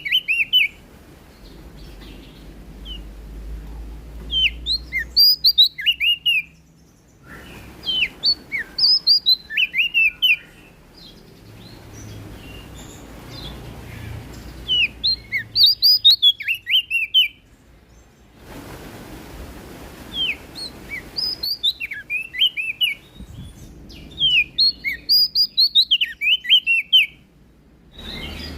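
Prenjak daun (cikrak daun) songbird singing. It gives loud phrases of one to three seconds, each a rapid run of high, down-slurred notes, repeated every few seconds with quieter pauses between.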